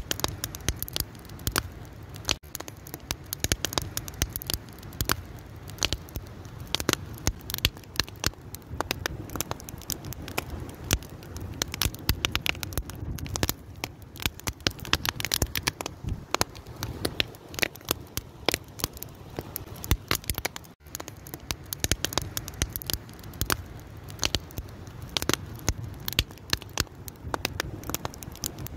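Wood fire crackling: a dense, irregular stream of pops and snaps over a steady low rumble of the flames.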